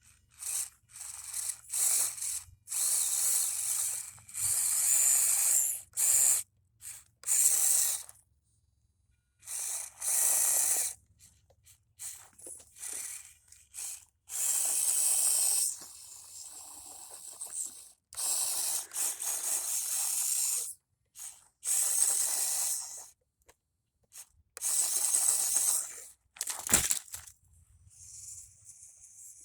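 Tiny electric motor and gear train of a 1/24-scale Axial RC crawler whirring in short bursts of throttle, each a second or two long with pauses between, and one sharp click near the end.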